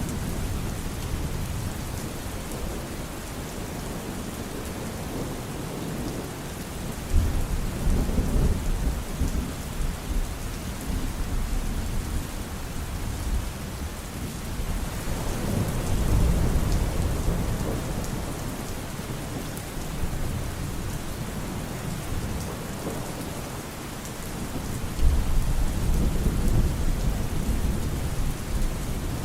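Steady rain falling, with rolls of thunder rumbling up three times: about a quarter of the way in, about halfway, and near the end.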